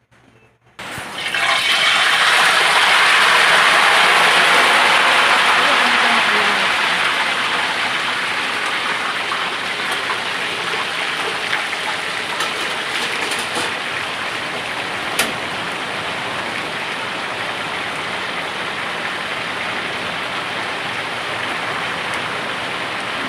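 Chicken frying in hot oil: a loud sizzle starts suddenly about a second in, is strongest for the first few seconds, then settles to a steady frying hiss. A single sharp click about midway.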